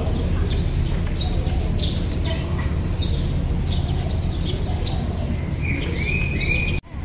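Small birds chirping, many short repeated calls, over a steady low background rumble; near the end a lower, drawn-out call sounds twice.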